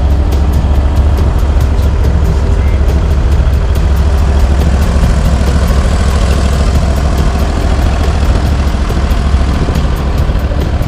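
Stump grinder's engine running steadily at a constant, low-pitched level.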